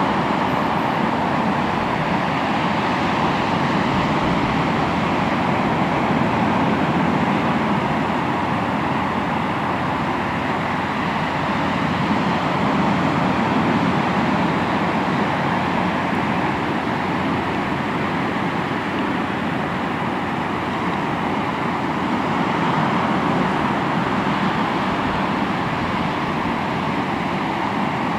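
Sea waves breaking and washing on the shore: continuous surf, gently swelling and easing every several seconds.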